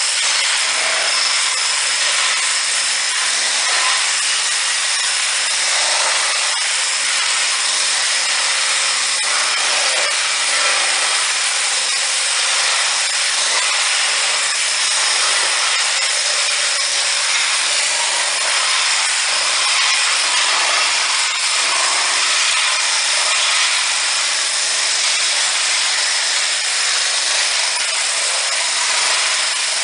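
Steady rushing machine noise with a constant high whine, unbroken throughout.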